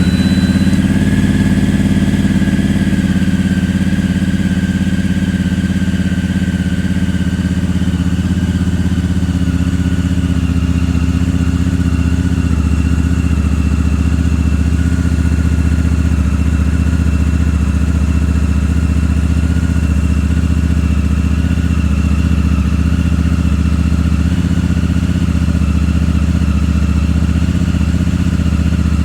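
Honda Hawk 11's 1,082 cc parallel-twin engine idling through a Moriwaki slip-on muffler, cold, just after start-up. The idle eases slightly lower over the first several seconds, then runs steadily.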